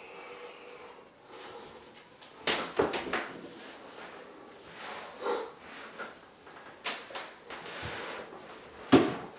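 A few scattered knocks and clattering bumps, as of things being handled, the loudest one near the end.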